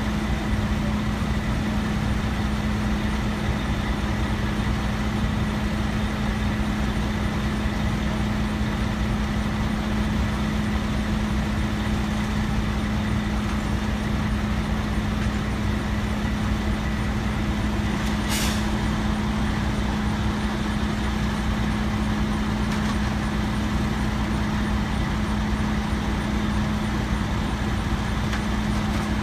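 Heavy truck's diesel engine running steadily with a constant hum, and a brief hiss of air about eighteen seconds in.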